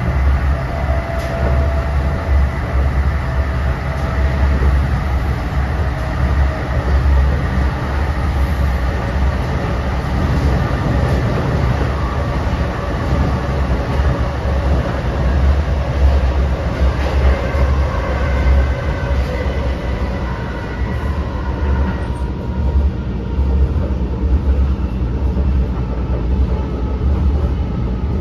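Interior of an NJ Transit Multilevel coach running at speed: a steady, heavy low rumble of wheels on rail with faint whining tones above it. The higher hiss thins out a little about three-quarters of the way through.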